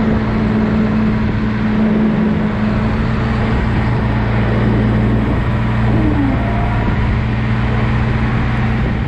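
Valtra T234 Direct tractor's six-cylinder diesel engine running steadily with a constant hum.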